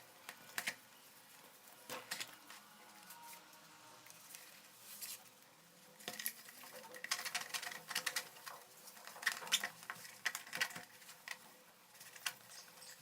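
Light clicks, taps and scratches of small hard parts being handled during a blender repair, scattered at first and coming in quicker clusters after about six seconds.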